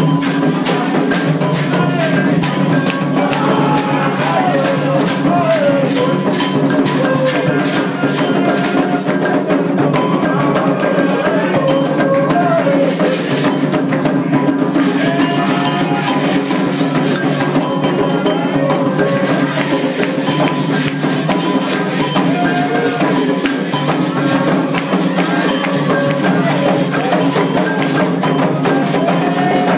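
Candomblé ceremonial music: atabaque hand drums and a bell keep a fast, continuous rhythm while a group sings a chant.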